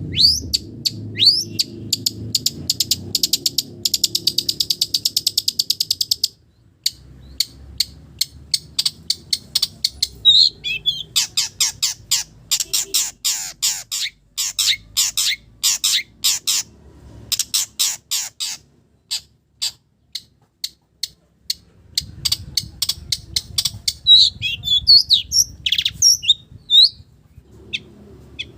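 Long-tailed shrike (cendet) singing a varied song that mimics other village birds: runs of rapid, sharp chattering notes and a buzzy trill, a pause of a few seconds past the middle, then a few whistled notes near the end.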